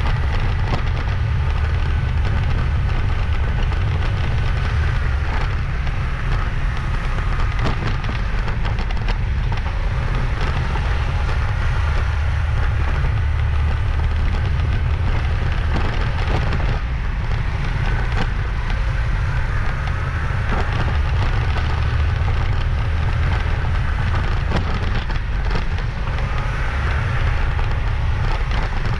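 Wind buffeting the microphone and road noise from a moving motorbike, a steady rumble with crackle, with a faint engine whine that rises and falls now and then.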